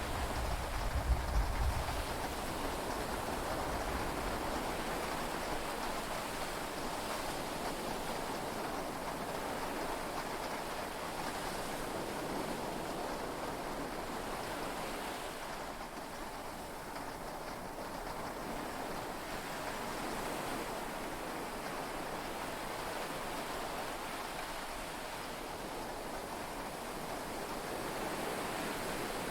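Steady heavy rain and sea wash heard from inside a yacht's cabin, an even hiss throughout. A deep low rumble dies away about two seconds in.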